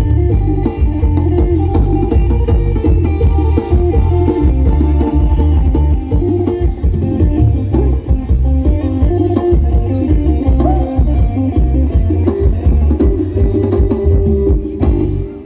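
Loud amplified live band music from a Thai procession sound truck (rot hae): heavy bass with drums and a plucked-string lead, captured through a phone's microphone.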